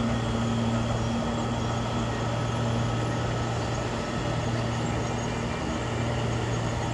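Bulldozer's diesel engine running steadily under load, a constant low drone.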